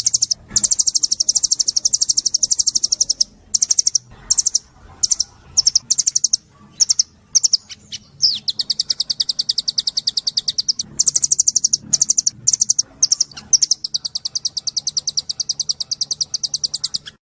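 Small songbird singing high, very rapid trills: long runs of several seconds broken up by a string of short trilled phrases in the middle, cutting off suddenly near the end.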